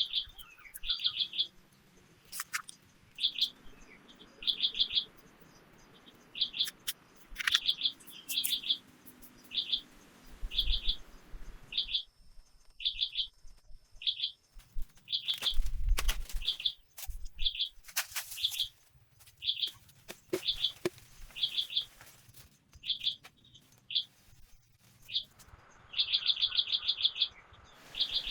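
A bird repeating a short burst of rapid high chirps about once a second, with a few brief pauses. Scattered sharp clicks and a couple of low thumps from handling sound in among them.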